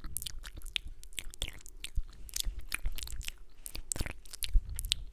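Close-miked wet mouth sounds for ASMR: kissing smacks and tongue clicks, many in quick irregular succession.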